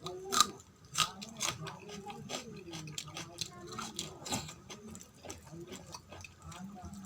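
Close-miked eating sounds: chewing and biting food, with many sharp, short crunches and wet mouth sounds.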